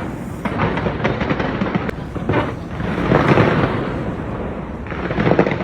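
Aerial display fireworks going off in quick succession: a dense run of bangs and crackling, loudest about three seconds in.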